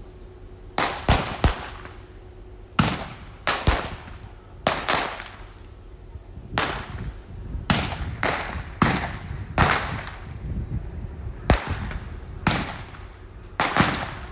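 Gunfire in a staged Wild West shootout: about twenty sharp shots at irregular intervals, some in quick pairs, each with a short ringing tail.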